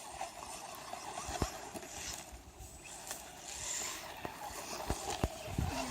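Electric RC monster truck (HSP 94111) driving through snow, its motor and tyres making a steady noise with several sharp knocks from the chassis bouncing.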